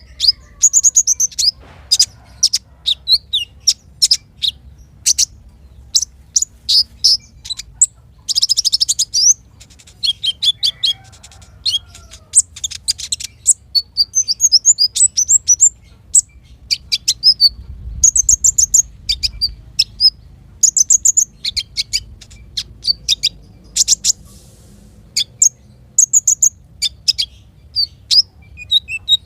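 Small songbirds singing: a rapid run of sharp, high-pitched chirps, whistled notes and short trills, with a denser buzzy trill about eight seconds in.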